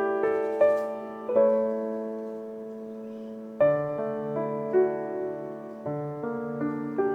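Background music: a slow, gentle solo piano piece, single notes struck over sustained chords, with one chord left ringing for about two seconds in the middle.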